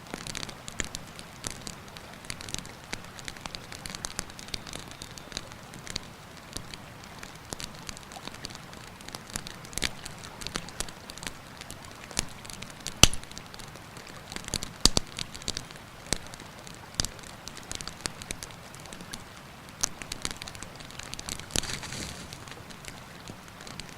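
Wood campfire crackling, with irregular sharp pops and snaps, the loudest about halfway through, over the steady rush of a river.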